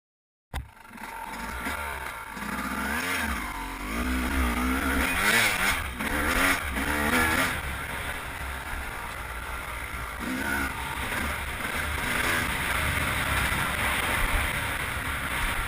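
2001 Yamaha YZ250 single-cylinder two-stroke motocross engine running and revving, its pitch rising and falling over and over, with the sharpest swings about three to seven seconds in and again around ten seconds in. The sound cuts in abruptly half a second in.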